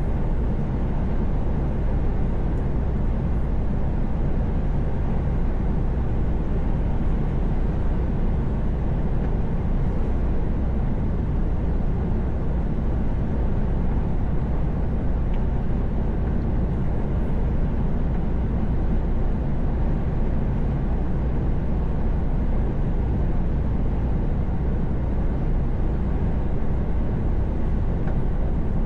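Truck running at steady highway speed: an even low engine drone mixed with road and tyre noise, with no change in pitch or level.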